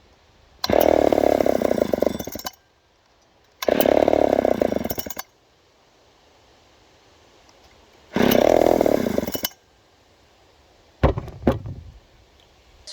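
Vintage Poulan 306A two-stroke chainsaw being pull-started: three times it catches and runs for a second or two, then dies. It sputters because it hasn't been started in a while and fuel is still getting through. A few sharp knocks follow near the end.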